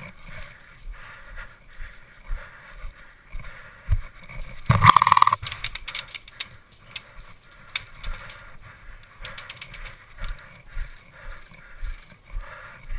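Footsteps and rattling gear of an airsoft player on the move, with a loud clatter about five seconds in and a quick run of sharp clicks a little after nine seconds.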